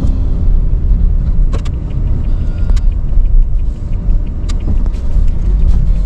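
Car driving on the road: a steady low rumble of road and engine noise, with scattered light clicks.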